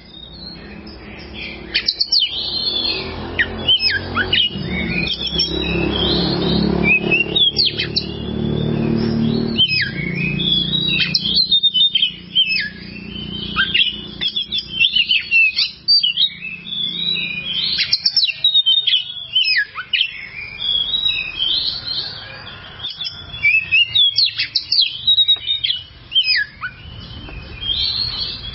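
Oriental magpie-robin (kacer) singing continuously, a fast, varied string of chirps, whistles and down-slurred notes. A low rumble sits under the song for a few seconds early on.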